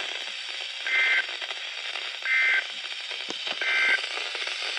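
Emergency Alert System end-of-message data signal on a NOAA Weather Radio broadcast: three short two-tone digital bursts about a second and a half apart, marking the end of the tornado warning. Steady static hiss from the scratchy radio reception runs underneath.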